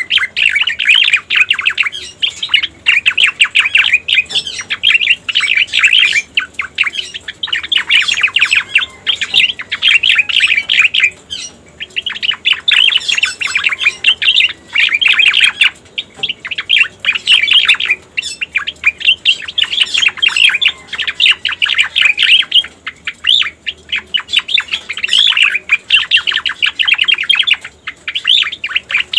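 Cica koreng bird singing, a lure recording: fast, busy chattering song in phrases of a few seconds each, with brief pauses between phrases.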